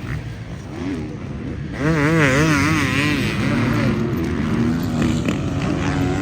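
Motocross dirt bikes racing on the track, engines revving up and down in quick waves, louder from about two seconds in.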